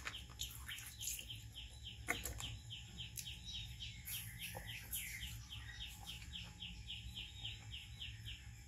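A bird calling in the background: a steady run of short falling chirps, about four a second. A single sharp click sounds about two seconds in.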